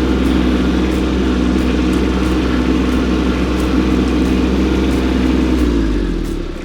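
Kubota compact tractor's diesel engine running steadily at working revs, its revs dropping near the end.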